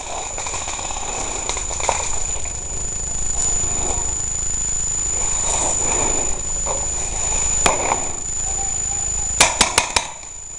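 Rustling, scuffing movement noise on a body-worn microphone that grows louder, then a single sharp pop and, near the end, a quick burst of four sharp pops typical of an airsoft gun firing.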